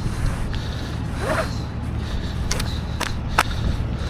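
Idling vehicle engine, a steady low rumble, with a few sharp clicks and knocks of equipment being handled.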